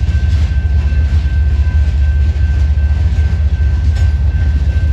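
Covered hopper cars of a Union Pacific freight train rolling past, a loud steady low rumble with a thin high ring held throughout and a few faint clicks of wheels over the rails.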